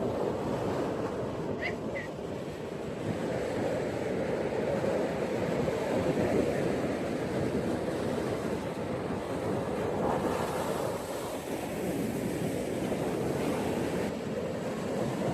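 Ocean surf washing onto a beach in a continuous rushing wash that slowly swells and eases. A brief high double chirp sounds about a second and a half in.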